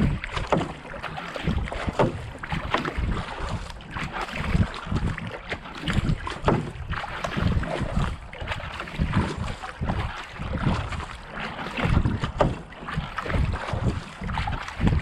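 Kayak paddle blades catching and pulling through canal water in a steady, brisk stroke rhythm, with water rushing along the hull. Wind buffets the microphone.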